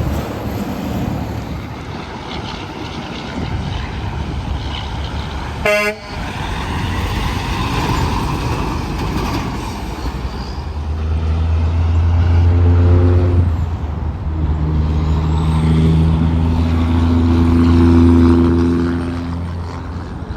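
Highway traffic and wind noise, then a semi-truck's air horn sounding two long blasts, the second one longer. A sharp click comes about six seconds in.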